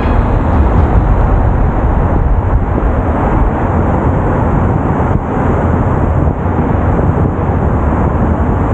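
Steady low rumble of a car on the move: road and engine noise, with most of the sound at the low end.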